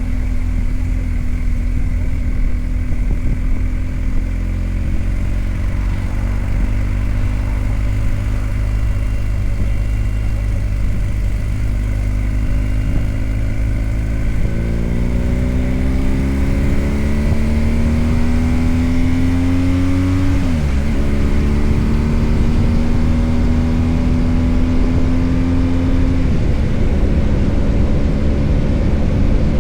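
BMW R1250 GS Adventure's boxer-twin engine under way, with a steady wind rush. About halfway through it opens up and the revs climb, falling with a gear change about two-thirds in, then climbing again before dropping and settling near the end.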